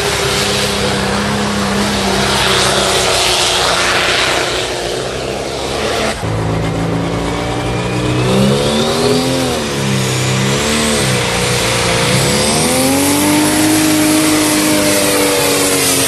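Modified pulling tractor's engine running loud and hard under a pull. About six seconds in the sound breaks off abruptly, then the engine note dips and recovers twice before climbing to a steady high pitch, with a thin high whine rising slowly above it.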